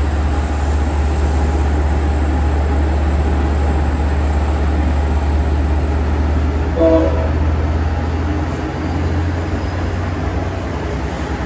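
Diesel passenger train running at the platform with a steady low engine rumble. A single short horn toot sounds about seven seconds in, and a thin high whine rises in pitch near the end.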